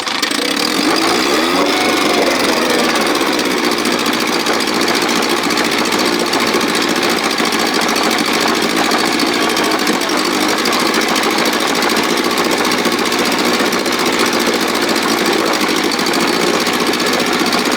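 1957 Sea King 5 hp two-stroke outboard motor starting up abruptly, speeding up and settling within the first few seconds, then running steadily and loudly.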